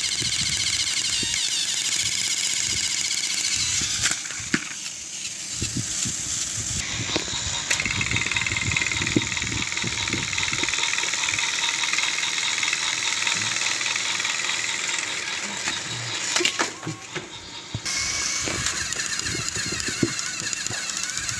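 Battery-powered toy train engines' small electric motors and plastic gears whirring, with scattered clicks and rattles. The whir drops off briefly about four seconds in and again near seventeen seconds, then picks back up.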